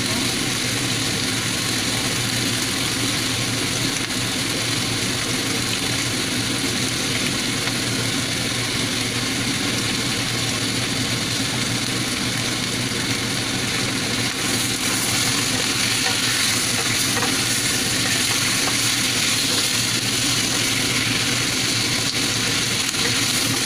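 Chicken pieces sizzling steadily in a stainless steel pan, the sizzle growing a little brighter about halfway through; near the end a wooden spatula stirs the pieces.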